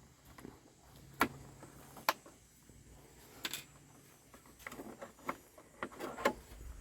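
Scattered light clicks and taps from a hobby-grade RC rock crawler's plastic body and chassis being handled and turned over, a few sharp ones spaced a second or so apart and a quicker cluster near the end.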